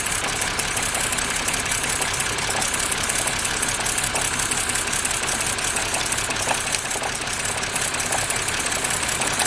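2006 BMW E90's inline-six engine idling steadily with the ignition coils for cylinders 2 and 3 unplugged. The idle speed does not change, which the owner takes as a sign that both of those coils are bad and the cylinders were already misfiring.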